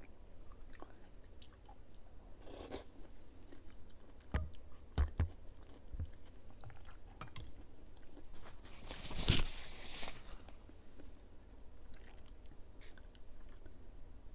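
A person chewing soft fruit jelly close to the microphone: wet mouth clicks and smacks, and one louder, longer wet sound about nine seconds in.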